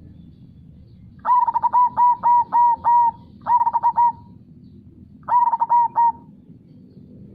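Zebra dove (perkutut) singing its rhythmic cooing song in three phrases: a run of about six quick notes, then two shorter bursts of a few notes each. Underneath is a low steady rush of flowing river water.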